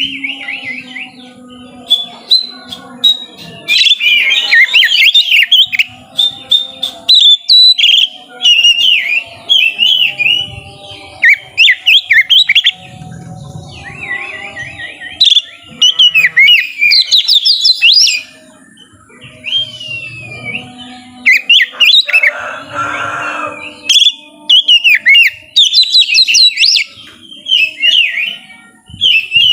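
Oriental magpie-robin singing in rapid bursts of varied whistles and fast trills, phrase after phrase with only short pauses.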